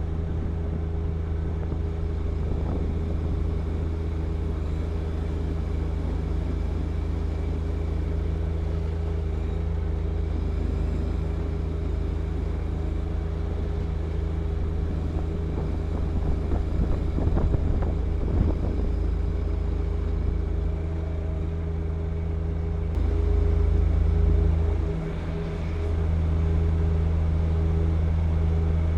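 John Deere 1025R compact tractor's three-cylinder diesel engine running steadily while clearing wet snow with its snow blower. The engine grows louder a little past the middle, dips briefly, then carries on slightly louder.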